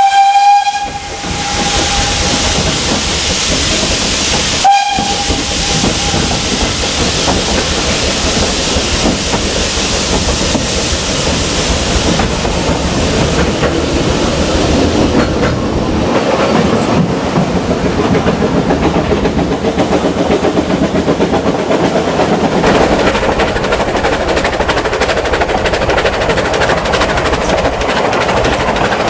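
Vale of Rheidol No. 8, a narrow-gauge 2-6-2T steam locomotive, sounds its whistle twice, a blast of about a second and a half and then a shorter one about five seconds in. Under it runs the steady loud hiss and rumble of the steam train in motion.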